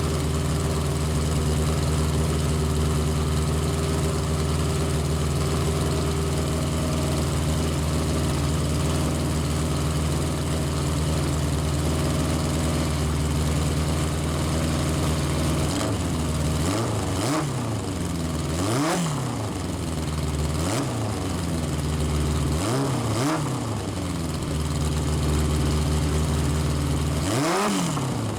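Legends car's carbureted Yamaha four-cylinder motorcycle engine idling steadily on its own, its carburetor throttle stop being adjusted so it runs without throttle input. In the second half it is revved in about five quick blips, each rising and falling back to idle.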